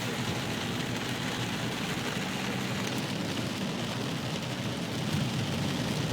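Fast floodwater from a flash flood rushing steadily through a town street.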